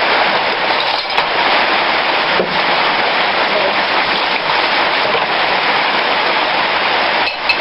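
Hot cooking oil sizzling steadily in a frying pan, with a few faint pops.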